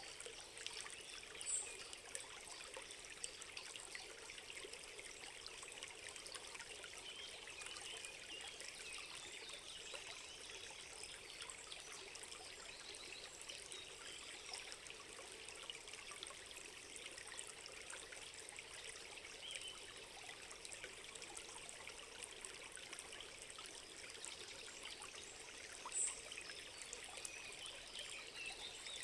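Forest ambience of a softly trickling stream, with faint chirps throughout. A brief high bird call sounds twice, about a second and a half in and again near the end.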